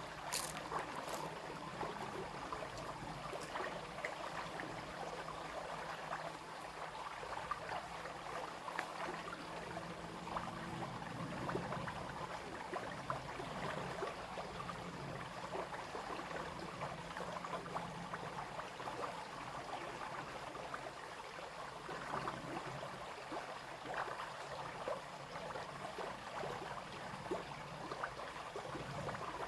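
Small brook running steadily, water babbling and trickling over stones.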